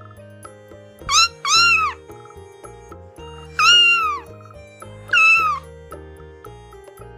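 Domestic cat meowing four times: two quick meows about a second in, a long falling meow, then a last shorter one, over light background music.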